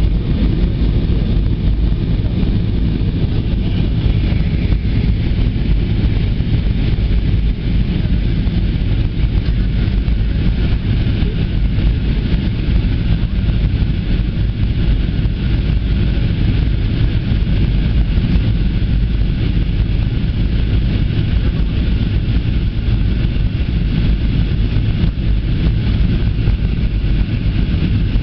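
Airbus A320 cabin noise in flight: the jet engines and the rush of air past the fuselage make a deep, even rumble that holds steady throughout.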